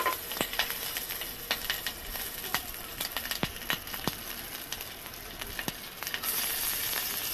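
Green chillies and fennel seeds sizzling in hot coconut oil and ghee in a pressure cooker, stirred with a wooden spatula, with scattered sharp crackles of spitting oil. A little after six seconds in, sliced onions are tipped in and the sizzle gets louder.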